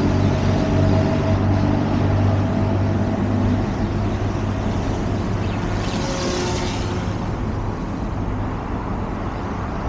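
OMPHOBBY M2 electric RC helicopter's direct-drive brushless motors and rotor blades at full throttle, a steady hum that weakens after a few seconds. A brief hissing rush comes about six seconds in. The helicopter is bogging down under load, which the pilot puts down to batteries weakened by the cold.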